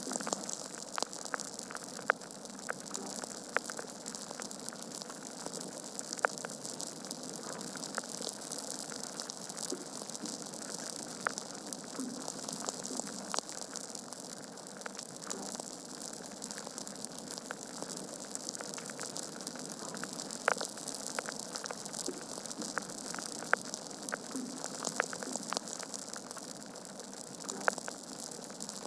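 Wood fire crackling in a fireplace: a steady hiss of burning logs with frequent irregular sharp pops and snaps, a few louder than the rest.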